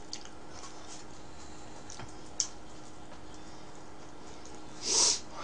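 Close-up eating sounds: a person chewing pizza, with faint wet mouth clicks and one sharper click about halfway. Near the end a short, louder hiss of breath.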